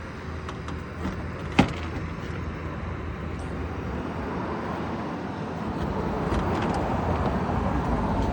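A car engine running nearby, growing louder toward the end, with a sharp click about one and a half seconds in.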